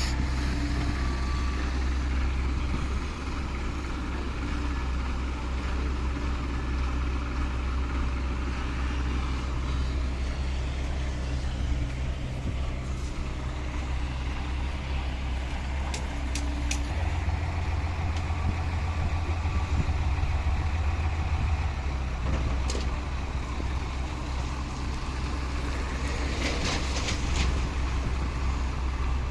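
Large Hino truck's diesel engine running steadily at low revs, its note growing stronger for about five seconds midway. A few brief sharp clicks and a short hiss come near the middle and near the end.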